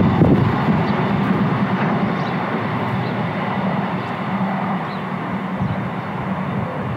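A train running past on the line, loudest at the start and then slowly fading into a steady rumble as it draws away.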